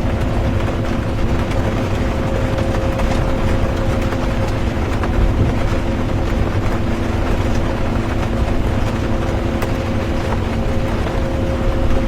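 Inside a moving bus: a steady engine and drivetrain hum over a low road rumble, with an even hiss of rain and faint ticks.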